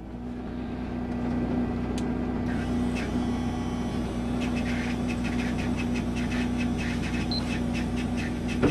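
Subaru R4 rally car's flat-four engine idling steadily while stationary, heard from inside the cabin. Partway through comes a run of light, rapid ticks, about four a second.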